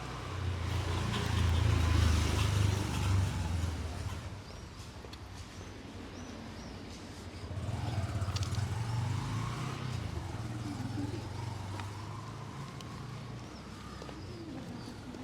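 Motor vehicles passing along a street: the first engine rumble swells to a peak about two seconds in and fades, and a second, quieter one passes from about eight seconds in. Small birds chirp faintly in between.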